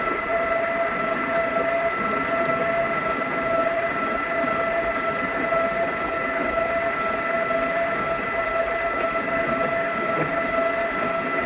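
HMT drilling machine running steadily, a constant whine over a busy mechanical rumble.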